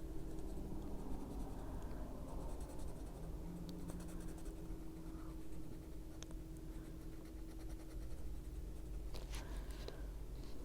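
Prismacolor colored pencil scratching softly across paper as a small area is shaded, over a low steady hum.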